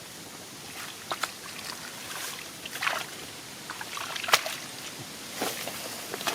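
Shallow water sloshing and splashing, with irregular sharper splashes, the loudest just past four seconds in.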